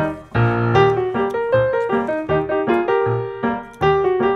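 Background music: a solo piano tune in an old-time style, a low bass note alternating with chords in a steady bouncing beat.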